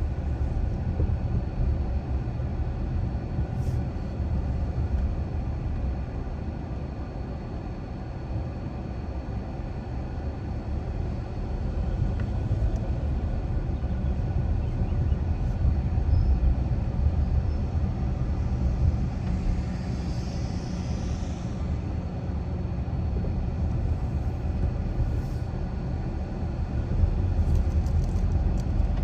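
Car driving at steady speed: an even, low rumble of engine and tyres on the road, with a brief soft hiss about two-thirds of the way through.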